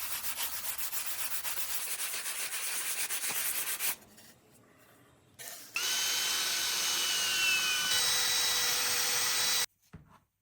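Sanding on metal bodywork with fast, even strokes. After a short pause, a power tool runs with a steady whine that drops slightly in pitch, then cuts off abruptly near the end.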